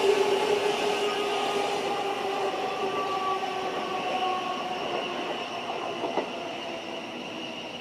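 Electric multiple-unit train running by on the line, its steady motor whine of several held tones sinking slightly in pitch as it fades away. A single sharp clack from the wheels about six seconds in.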